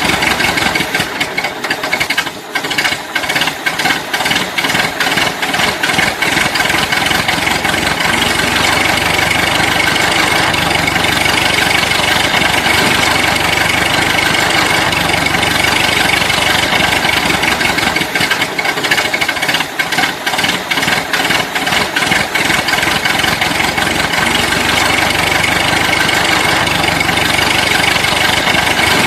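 Toy vehicle's engine sound running steadily, thin and tinny with a strong high whine, with stretches of fast clicking or rattling near the start and again about twenty seconds in.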